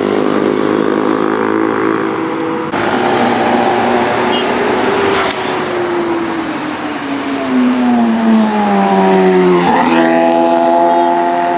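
Superbike engines running close by; about three seconds in the sound changes abruptly, then one engine's pitch falls steadily for several seconds, as when a bike slows or passes by, and near the end a sudden shift leaves a steady engine note.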